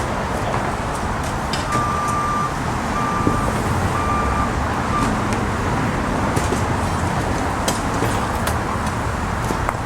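Heavy construction machinery running with a steady engine rumble and scattered knocks, like rocks being moved. A backup alarm beeps four times about two to five seconds in, the last beep cut short.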